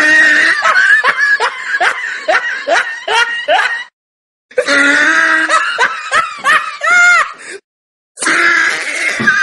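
A man laughing loudly and heartily in three bouts, with short silent breaks between them. The middle bout ends in high squealing laughs.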